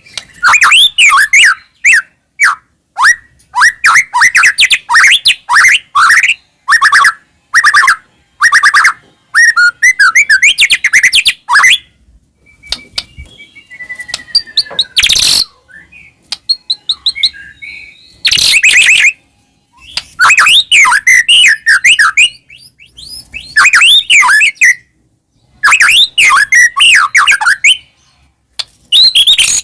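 White-rumped shama (murai batu) singing loudly in full song: phrases of rapid whistles and chattering notes about two seconds long, with short pauses between them and a softer stretch in the middle.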